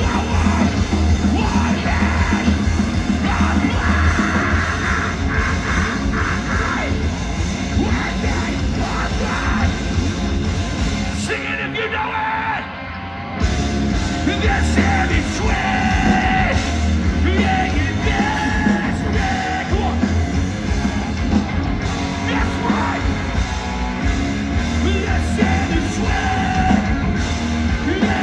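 Metalcore band playing live: distorted guitars, bass and drums with yelled, screamed vocals. About halfway through, the low end drops out for a couple of seconds, then the full band comes crashing back in.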